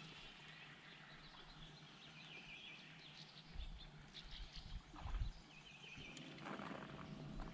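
Faint bird calls, short chirping phrases repeated in two spells, with a couple of low thumps around the middle.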